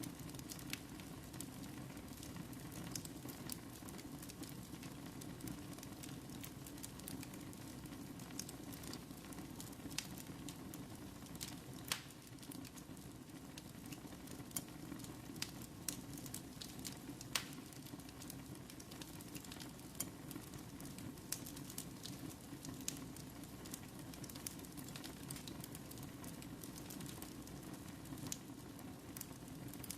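Wood fire in a fireplace crackling, with irregular sharp pops over a steady low rush.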